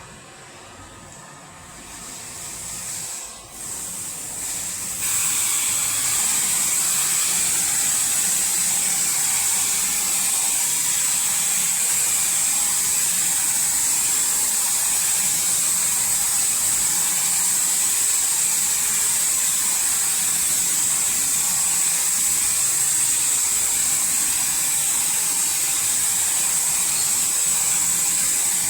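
A robotic car wash's high-pressure water spray starting up and then hissing steadily, with a high whistling edge. It builds over the first few seconds and reaches full force about five seconds in.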